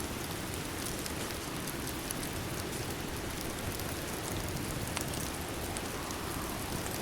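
Steady rain falling, a continuous even hiss, with a few sharp clicks scattered through it; the clearest click comes about five seconds in.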